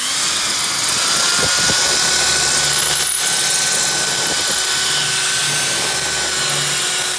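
Loud power tool running steadily under load for several seconds, working off a rivet on the caravan's aluminium panel, with a thin steady whine over the noise.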